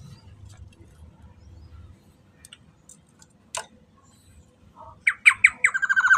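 Black-naped oriole calling: after a faint low rumble and a single click, a quick series of loud, harsh notes begins about five seconds in and runs into a rapid rattling call near the end.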